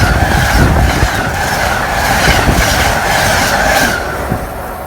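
Train passing close by, its wheels clattering over the rail joints about three times a second under a steady high ring from the wheels, easing off near the end as it goes by.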